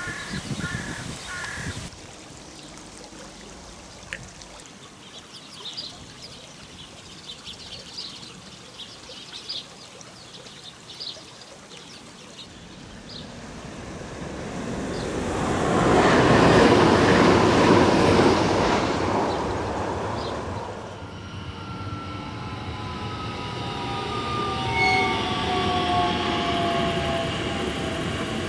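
Birds chirp at first. Then a train passes over a railway bridge, its rumble building and loudest a little past halfway. Near the end, a Bombardier Talent 2 (class 1442) electric S-Bahn train gives a motor whine of several tones that slowly fall in pitch as it slows.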